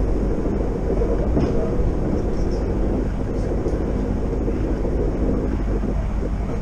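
Passenger train running at speed, heard from inside the carriage: a steady rumble of wheels on the rails with a constant low drone.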